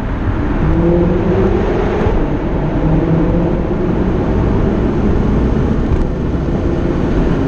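BMW F10 M5's twin-turbo V8, with a full Akrapovic exhaust, pulling hard under acceleration. Its note climbs in pitch over the first couple of seconds, then holds, over heavy road noise.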